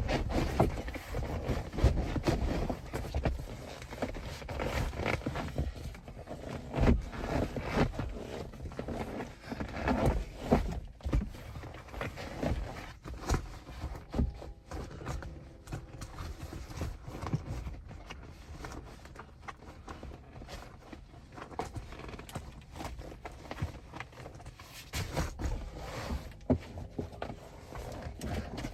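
Fabric seat covers being tugged and stretched over car seats: rustling and scraping with irregular knocks and thumps from handling.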